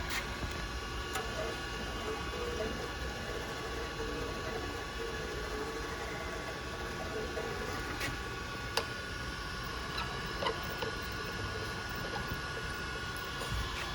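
Chevalier FSG-618M surface grinder running, its 2 hp spindle motor turning with a steady whine, smooth and even, with a few short ticks scattered through.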